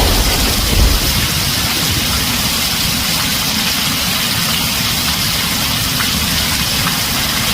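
Heavy rain drumming steadily on a tin roof, with the low rumble of thunder dying away in the first second.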